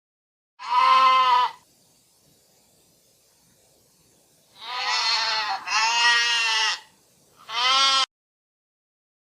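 Goat bleating four times: one call, a pause of about three seconds, then three more in quick succession, each a quavering bleat.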